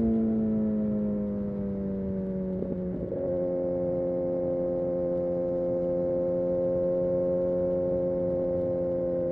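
Kawasaki Ninja ZX-6R inline-four engine, its pitch slowly falling as the bike slows off the throttle, a brief blip about three seconds in, then holding a steady note.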